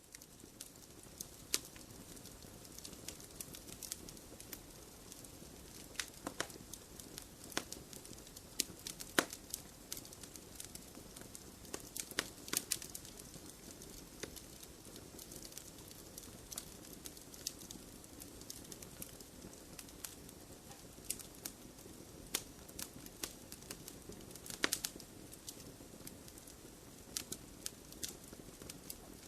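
Wood fire crackling in a fireplace: a soft steady hiss broken by frequent irregular pops and snaps, a few of them sharper and louder.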